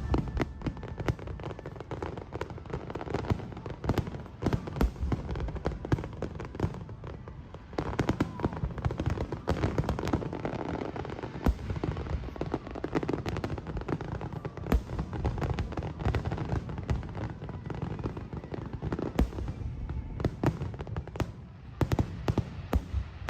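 Aerial fireworks bursting: a dense, continuous stream of overlapping bangs and crackles with a deep rumble beneath, picking up about eight seconds in and building to a thick flurry of bursts near the end.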